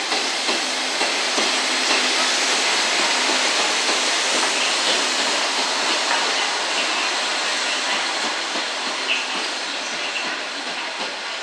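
EF65 electric locomotive towing an unpowered D51 steam locomotive rolling past: a steady rumble of wheels on rail, with scattered light clicks and some hiss.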